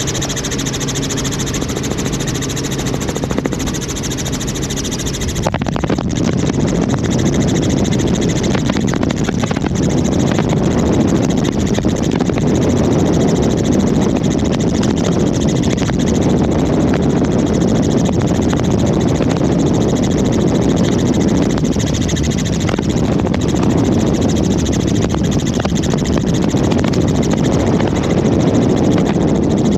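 Helicopter engine and rotor noise from inside the cabin, loud and steady. About five seconds in it changes abruptly from a steady humming drone to a louder, rougher rush.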